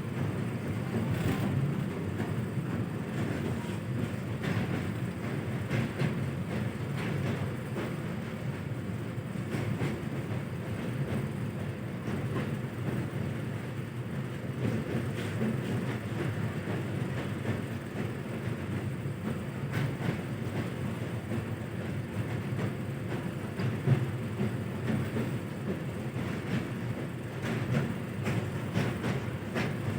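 Passenger train running at steady speed, heard from on board: a continuous low rumble with the wheels clacking irregularly over the rails, and one sharper clank about three quarters of the way through.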